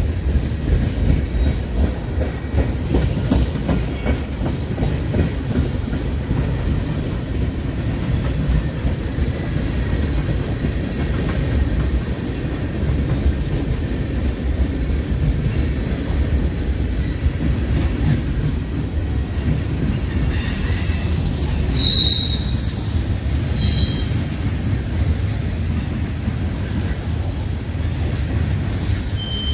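Freight train cars rolling past with a steady rumble of wheels on the rails. A few short, high-pitched wheel squeals break in late in the passage.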